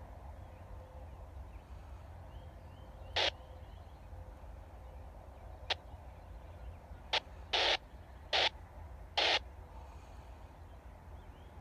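A bird calling in short calls, six of them from about three seconds in, the later ones closer together, over a steady low rumble.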